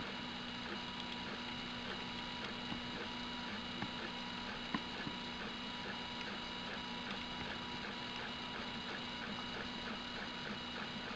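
Graber i3 (Prusa i3–type) 3D printer running, its stepper motors whining in several steady tones with light, rapid ticking as the axes move. One sharper click about five seconds in.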